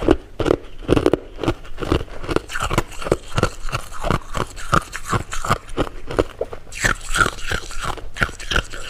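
Close-miked chewing and biting of jelly candy, a steady run of crisp, wet mouth clicks about three to four times a second.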